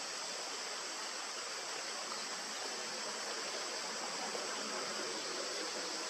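Steady rushing of a river or stream, an even wash of water noise with a steady high hiss over it.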